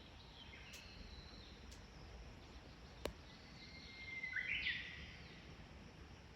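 Birds calling in quiet rural surroundings: a few faint high calls early on, then a steady whistled note about four seconds in that breaks into a louder, rising, chattering call. A single sharp click sounds about three seconds in.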